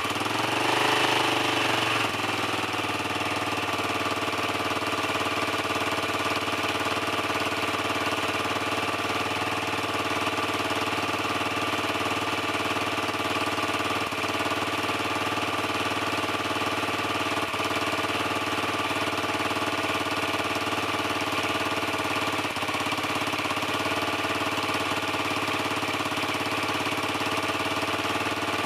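Dirt bike's single-cylinder engine idling steadily while warming up, after a short rev in the first couple of seconds.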